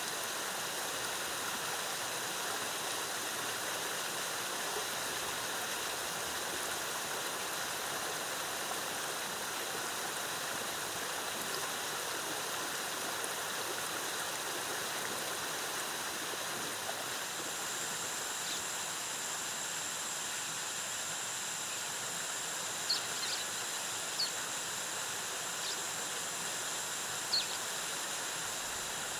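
A waterfall's cascading water rushes steadily. Partway through, a thin, steady high-pitched tone joins in, and near the end there are a few short, sharp high chirps.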